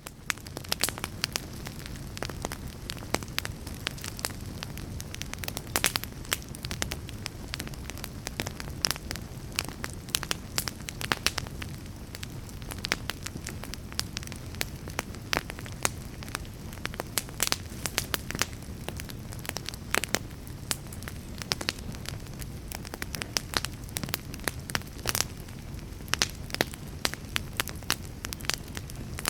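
Fire crackling: a steady low rumble of burning with frequent sharp pops and snaps.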